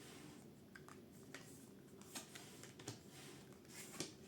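Near silence broken by faint, scattered light taps and clicks, about five of them, as tarot cards are handled and laid out.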